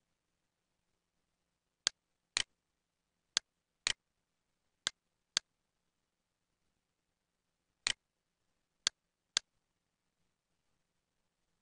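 Computer mouse-button clicks, about nine in all, mostly in pairs half a second apart, as text is selected with the cursor.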